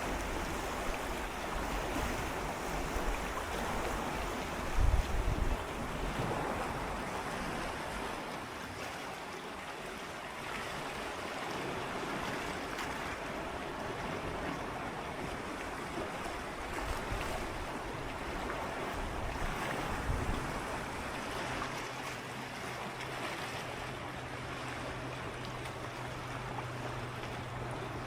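Small ocean waves lapping and swirling against shoreline rocks in a steady wash of water, with a brief low thump about five seconds in. A low steady hum joins about two-thirds of the way through.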